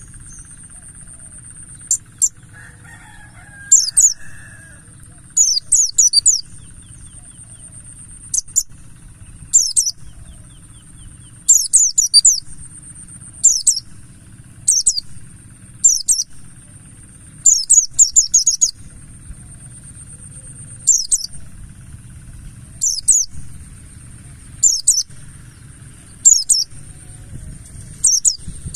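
A buxtoni white-eye (pleci) calling in short bursts of thin, high, falling chirps every second or two, over a steady high-pitched whine and a low hum.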